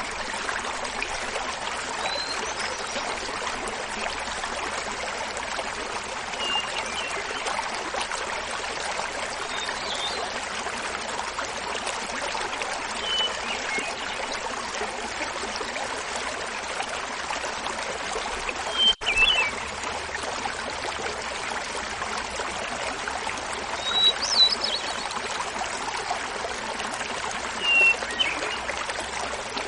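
Small mountain waterfall babbling steadily, with a hermit thrush singing short flute-like phrases every few seconds, each at a different pitch; the phrases are louder in the second half.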